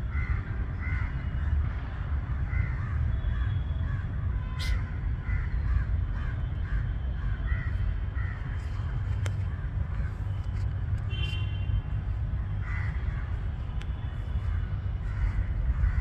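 Birds calling over and over in a chorus of short calls, thinning out for a few seconds midway, over a steady low rumble.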